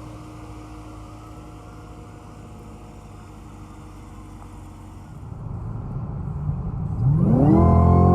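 2018 Camaro ZL1's supercharged 6.2-litre V8 running steadily, then opened up: it grows louder about five seconds in, and near seven seconds the revs climb quickly and hold high, with a high supercharger whine over the engine note.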